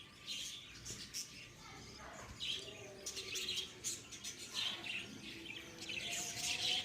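A colony of lovebirds chirping, many short high chirps overlapping one another.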